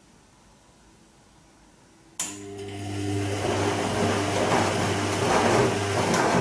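Bosch Serie 2 VarioPerfect washing machine switching on, about two seconds in, a steady electrical hum with water rushing. The sound grows louder and cuts off sharply after about four seconds.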